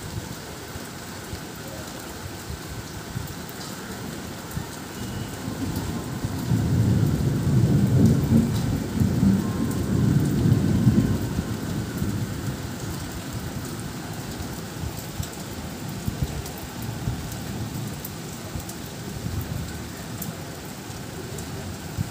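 Steady rain falling, with a long low rumble of thunder that swells about six seconds in and fades out by about twelve seconds.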